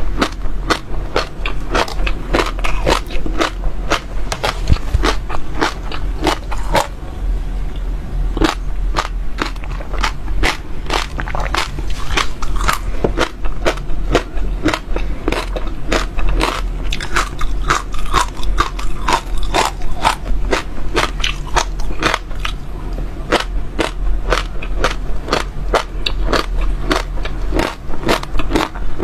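Close-miked crunching of seeds bitten and chewed in the mouth: a continuous run of sharp, crisp cracks, several a second, over a faint low hum.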